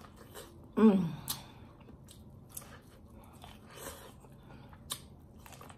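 Biting and chewing corn on the cob close to the microphone: scattered crisp clicks and crunches as the kernels are bitten off and chewed. A brief pitched voice sound, falling in pitch, comes about a second in.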